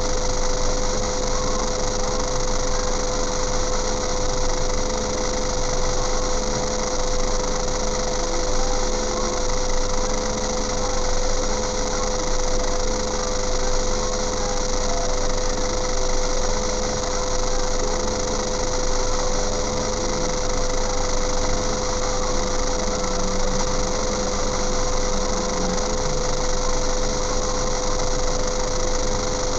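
Vehicle engine idling steadily, heard from inside a car's cabin, with a constant high-pitched hum over it.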